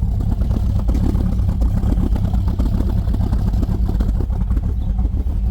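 A classic car's engine running with a steady low rumble.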